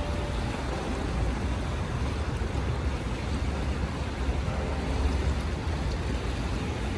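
Wind buffeting the microphone with a heavy low rumble, over the steady rush of rough, wind-driven waves.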